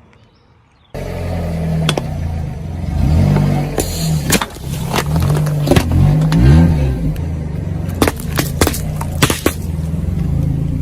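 A car engine running, starting up suddenly about a second in, its revs rising and falling several times, with sharp cracks and snaps over it.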